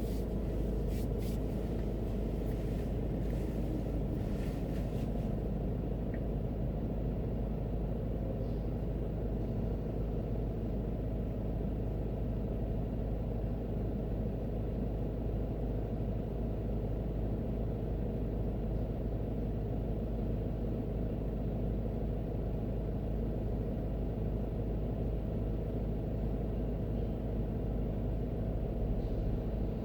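Steady low rumble of a car driving, with road and engine noise heard from inside the cabin. A few faint clicks occur in the first five seconds.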